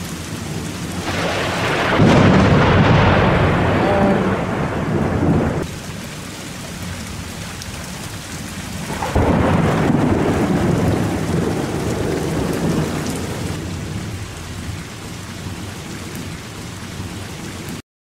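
Two long rolls of thunder over steady rain. The first builds about a second in and stops suddenly at about six seconds. The second starts about nine seconds in and slowly fades.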